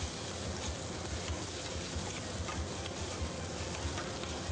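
Butter sizzling steadily in a sauté pan with chopped walnuts, raisins and chives, with a few light ticks as the mixture is stirred.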